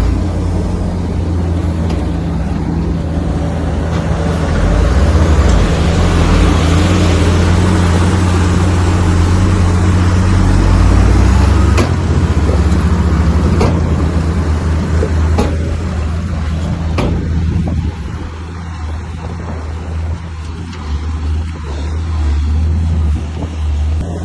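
Komatsu bulldozer's diesel engine running steadily under load, louder and noisier through the middle. A few sharp metallic clanks come in the second half, and the engine eases off near the end.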